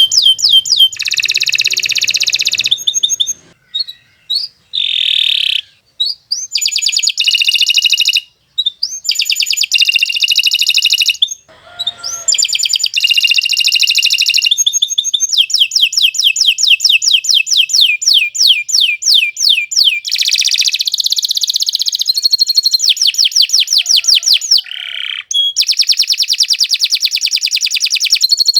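Domestic canary singing long, very fast trills of repeated high notes, with a few short pauses and abrupt breaks in its song during the first half.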